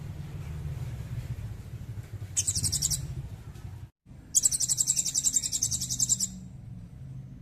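Songbird giving rapid, high-pitched trills: a short burst about two and a half seconds in and a longer one of nearly two seconds after a brief cutout, over a steady low hum.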